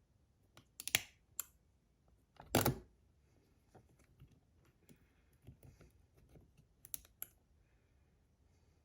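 Scattered clicks and clacks of the small metal parts and magnets of a disassembled fidget slider being handled, with a louder clack about a second in, a short clatter near three seconds, and two more clicks around seven seconds.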